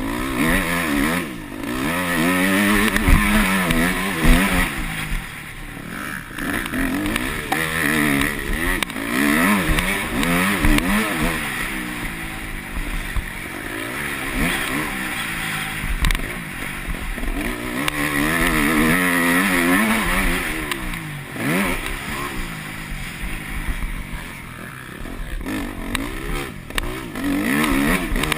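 Yamaha YZ250F single-cylinder four-stroke motocross engine being ridden hard, its pitch climbing and dropping again and again as the throttle is opened and shut through the gears. A few sharp knocks come through along the way.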